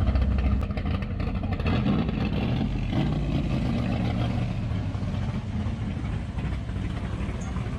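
A car engine running at low revs, a steady rumble.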